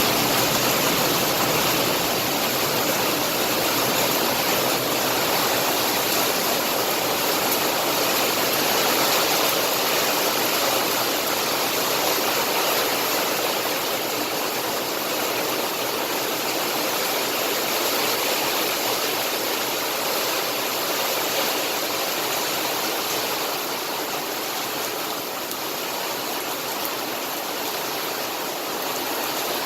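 Rain pouring down steadily, making a dense, even hiss that holds unchanged throughout.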